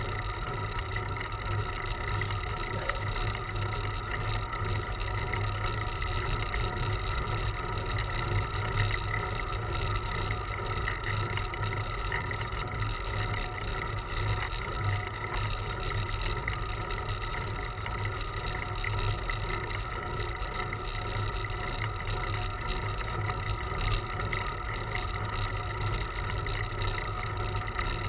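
Steady wind rumble on the microphone of a camera riding along on a bicycle, with continuous road and tyre noise beneath it.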